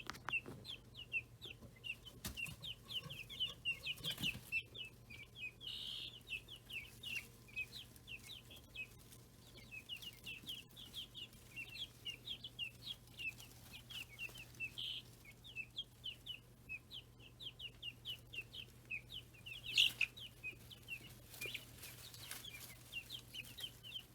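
Baby chicks and guinea keets peeping constantly in a brooder: many short, high peeps, several a second, over a faint low steady hum.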